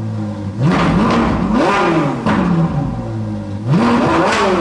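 Car engine idling and revving twice: the pitch climbs and falls back about a second in, settles to idle, then climbs and falls again near the end.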